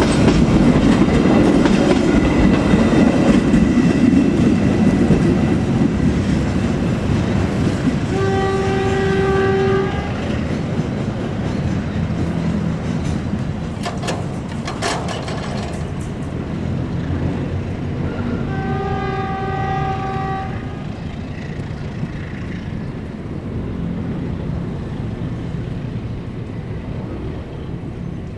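Passenger train passing close by, its wheels clattering over the rails, then fading as it runs away into the distance. The locomotive's horn sounds twice, two long steady blasts about ten seconds apart.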